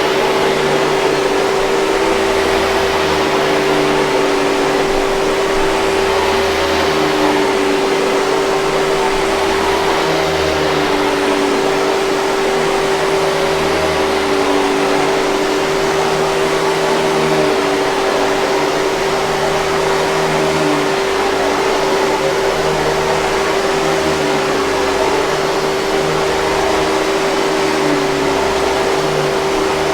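Hoover 5000 Series canister vacuum cleaner running continuously: a steady motor whine with a strong hum and a broad rush of air.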